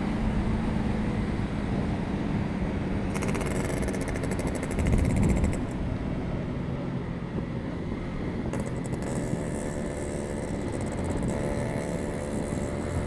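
Yamaha RX Special's 115 cc two-stroke engine running, with a brief swell in loudness about five seconds in and a steady note later on.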